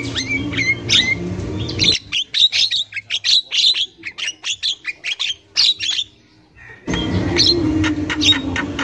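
Javan myna (jalak kebo) giving a fast run of short, harsh, chattering calls, with a brief break about six seconds in.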